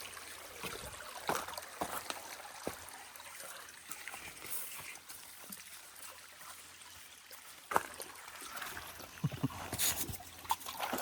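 Shallow stream trickling over rocks, with scattered splashes and knocks from stepping through the water, most of them near the end.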